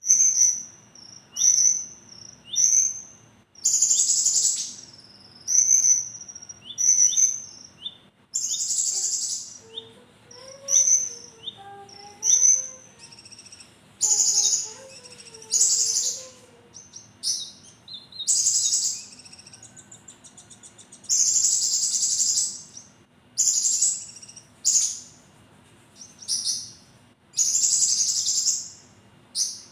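A konin songbird singing hard: short high whistled notes alternating with loud, harsh, sharp bursts of song, repeating every second or two. A softer, lower warbling runs underneath for several seconds in the middle.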